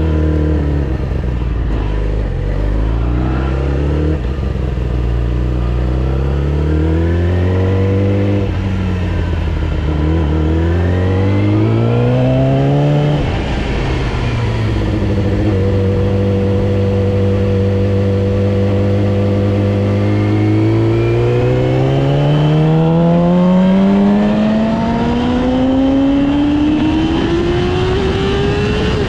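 Yamaha R6 inline-four sport bike engine accelerating through the gears: its pitch rises in several short climbs over the first dozen seconds, drops, holds steady at a cruise for about five seconds, then climbs slowly and steadily in revs through the last third.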